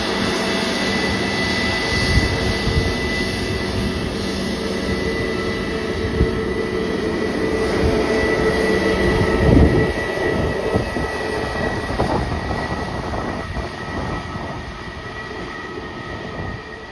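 Jet airliner engines running, a steady rush with a high whine, slowly fading away near the end. There are a few short low thumps along the way.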